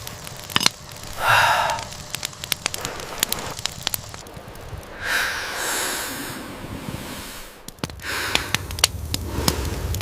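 Wood campfire crackling with frequent sharp pops, broken by a few longer hissing rushes.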